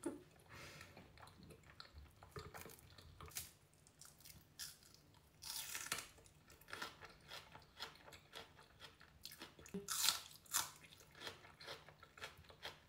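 A person chewing food close to the microphone, with crunchy bites; the loudest crunches come about five and a half and ten seconds in.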